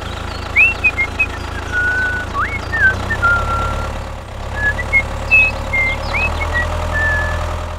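Mini tractor's engine running steadily with a low hum. Short chirping calls from birds come and go over it.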